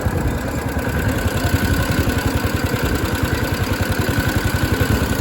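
Mini bike's small engine running steadily under the rider, with a fast, even low putter.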